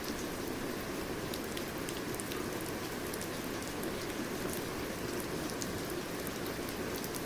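Steady rain falling, a continuous hiss with many distinct drops ticking on a surface.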